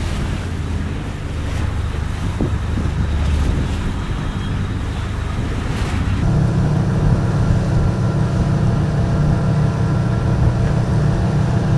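Wind buffeting the microphone over the low rumble of a ship. About six seconds in, the sound changes abruptly to a steady low hum of a ship's engine running.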